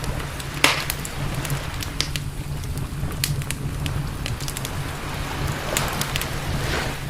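Wood campfire crackling, with scattered sharp pops and one loud snap just under a second in, and a brief hiss near the end. A steady low rumble runs beneath.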